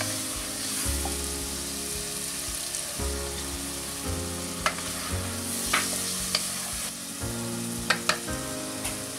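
Meat, tomatoes and peppers sizzling in a pot while being stirred with a wooden spatula, with a few sharp knocks of the spatula against the pot in the second half. Soft acoustic instrumental music plays underneath.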